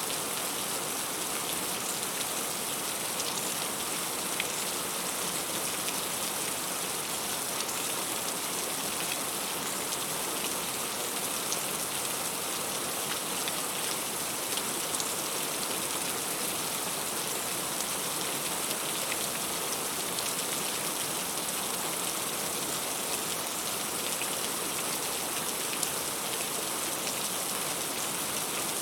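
Heavy rain falling steadily, an even wash of noise with individual drops ticking through it.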